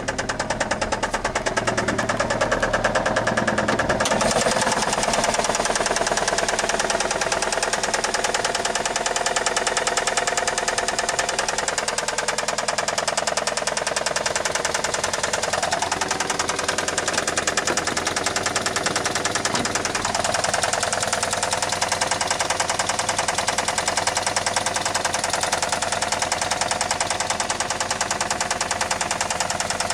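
1999 Saturn SL2's 1.9-litre twin-cam four-cylinder engine running with a rapid, steady knock throughout: rod knock.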